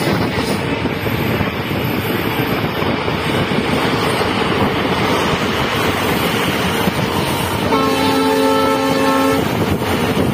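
Passenger coach running at speed, a steady rolling and wind noise through the open door. About eight seconds in, the hauling WDP4 diesel locomotive's horn sounds once, a steady chord held for under two seconds.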